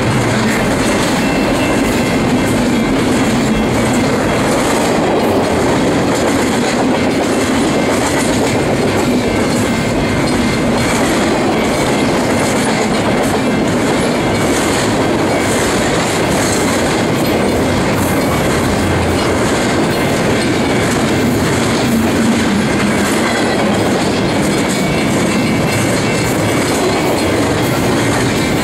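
Double-stack container train's well cars rolling past: a loud, steady rumble and rattle of steel wheels on rail, with repeated clicks over the rail joints.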